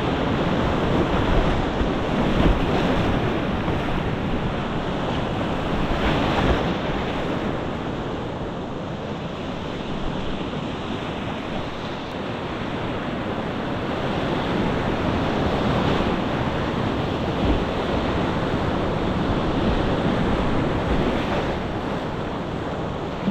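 Whitewater rapids rushing around a kayak, heard close through an action camera's microphone, with wind and water noise buffeting the microphone. The rush swells and eases without a break.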